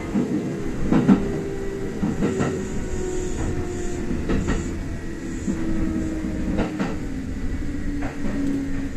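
Kintetsu electric express train running and slowing, heard from inside the leading car: a steady rumble with a whine that slowly falls in pitch, and a few sharp clacks of the wheels over rail joints.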